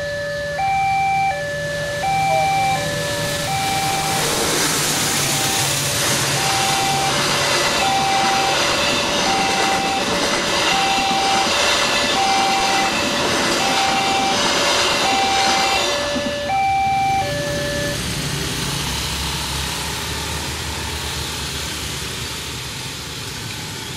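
Level-crossing warning alarm repeating an electronic two-note high–low signal while a passenger train passes, its wheels clattering rhythmically over the rails. The train noise builds about four seconds in and dies away at about seventeen seconds, and the alarm stops about a second later.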